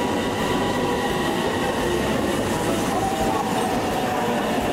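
Train running along the track: a steady rumble of wheels on rail with faint steady whining tones above it.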